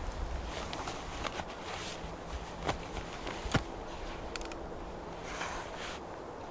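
Footsteps outdoors, with a few sharp snaps and cracks scattered through, the clearest about a second, two and a half and three and a half seconds in.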